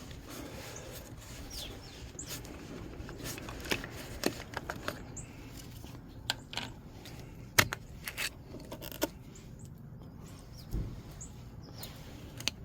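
Scattered light clicks and taps of hands working in the engine bay around the oil filler, against a steady low background, with a few brief bird chirps.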